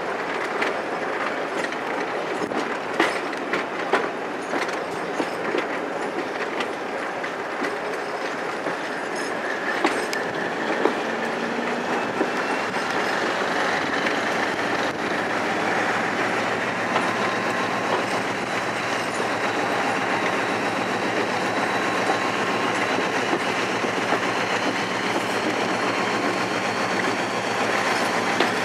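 Diesel-hauled passenger train heard from an open coach window as it runs along: a steady rumble with the clack of wheels over rail joints, busiest in the first ten seconds or so. After that a faint high whine slowly rises.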